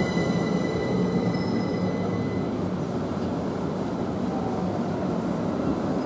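Class 387 electric multiple unit standing at the platform, giving a steady electrical hum. Thin high whining tones fade out about two and a half seconds in.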